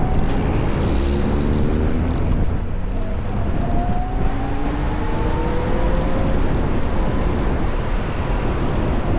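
Heavy wind rumble on the microphone of an electric motorcycle riding through traffic, with a thin electric-motor whine that rises in pitch twice as the bike speeds up, the second time levelling off.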